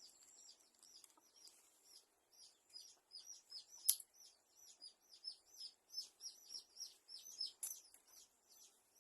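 Small birds chirping faintly in a steady run of short, high, downward-falling chirps, a few a second. Two sharp clicks stand out, about four seconds in and again near the end.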